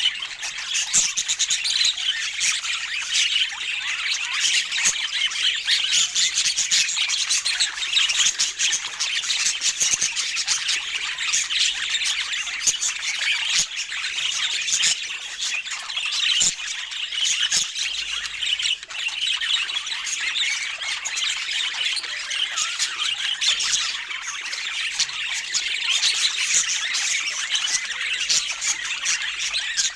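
Budgerigars chattering and squawking: many birds at once, a dense, continuous mix of short chirps, warbles and squawks.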